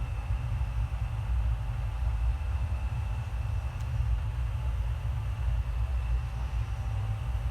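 Passenger train running along the track: a steady low rumble, with a faint steady whine above it.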